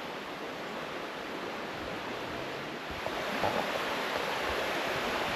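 Steady rush of flowing creek water, a little louder from about three seconds in.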